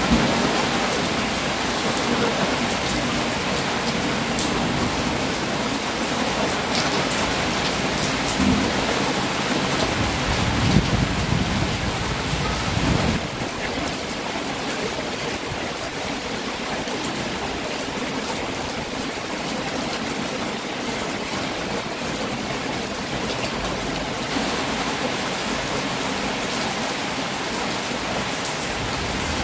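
Heavy rain falling steadily. A low rumble of distant thunder runs under it in the first half and dies away about halfway through.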